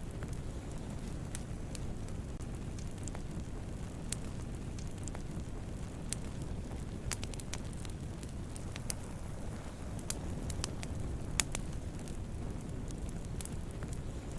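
Wood campfire burning with a steady low rumble of flames and irregular sharp crackles and pops, one louder pop near the end.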